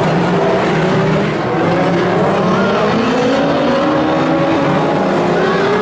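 Several dwarf race cars' engines running together at racing speed, their pitches overlapping and rising as the cars accelerate.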